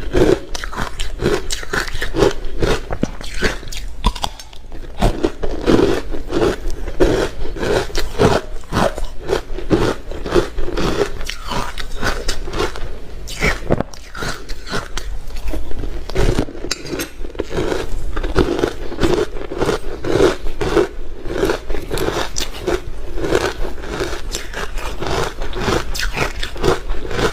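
Ice being bitten and chewed close to the microphone: dense, continuous crunching and crackling.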